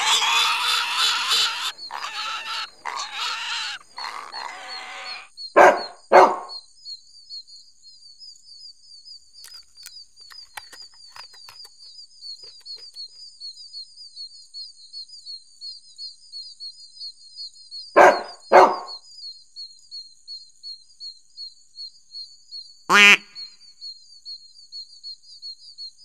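A pig grunting for the first few seconds, then a dog barking: two barks about six seconds in, two more around eighteen seconds and a single bark near twenty-three seconds. A steady, high, pulsing trill runs beneath the barks.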